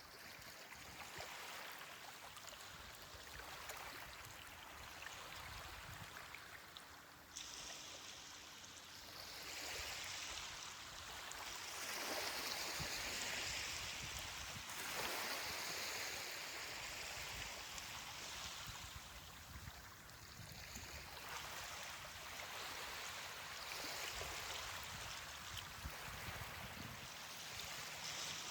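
Ocean surf washing onto a beach, a steady rushing of water that swells and eases as waves come in.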